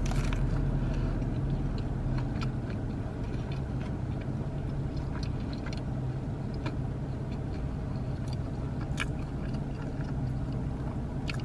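Biting into and chewing a crispy spicy chicken sandwich topped with crunchy corn nuts: a crunchy bite at the start, then chewing with scattered crisp crunches. A steady low hum runs underneath.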